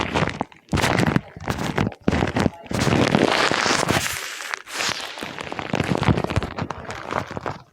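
Paper being handled and crumpled up close, a dense run of crackling and crinkling with a longer, steadier rustle in the middle.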